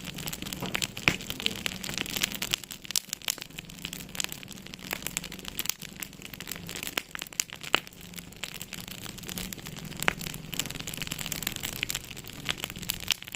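Wood fire crackling in a fireplace, with irregular sharp pops, a few of them louder than the rest.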